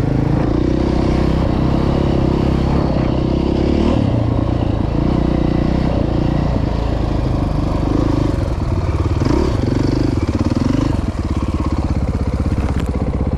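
Dirt bike engine heard from on board, running under changing throttle so its pitch rises and falls. About eleven seconds in it drops to a steadier, slightly quieter note.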